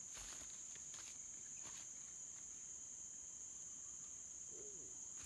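Steady chorus of insects shrilling in two unbroken high pitches, with a few faint taps and rustles.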